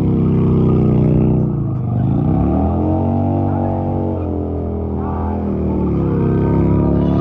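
Heavy motorcycle engine running under throttle. The revs drop about a second and a half in, then climb back and hold, rising a little again near the end.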